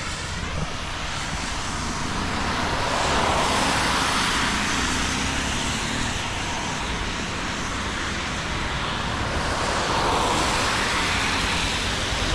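Traffic passing on a wet road in the rain: a steady tyre hiss that swells as vehicles go by, about three seconds in and again about ten seconds in.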